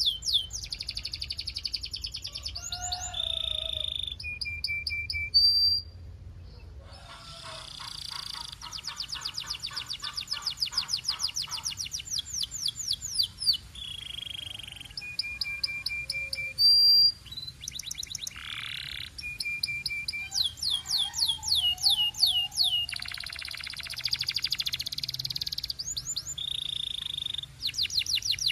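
Canary singing a long, varied song of rapid rolling trills alternating with short held whistled notes, high-pitched, pausing briefly about six seconds in before going on.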